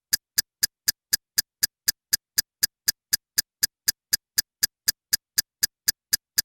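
A rapid, even ticking: sharp clicks about four a second, stopping abruptly near the end, like a timer or clock tick sound effect.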